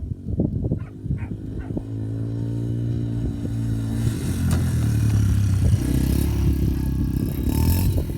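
Quad bike engine popping unevenly at low revs, then opening up about two seconds in and running hard under throttle, louder from about four seconds in.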